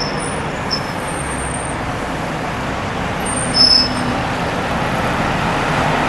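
Steady vehicle running noise with a few short high squeals, the loudest about three and a half seconds in, and the noise building toward the end.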